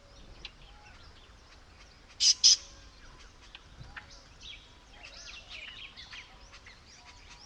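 Several small birds chirping and twittering in a tropical bush soundscape, with two short, loud, sharp calls close together a little over two seconds in.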